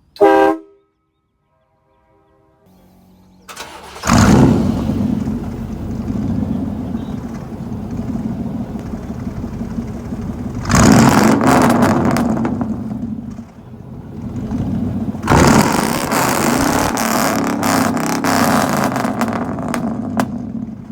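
Two Chevy 5.7-litre V8s with uncatted straight-pipe exhausts, one through an X-pipe and the other through dual 12-inch Glasspacks, cranked and started together about three seconds in. They run loud, rev hard together twice, around eleven seconds in and again from about fifteen seconds, and drop back between. A brief loud pitched sound comes just before the cranking.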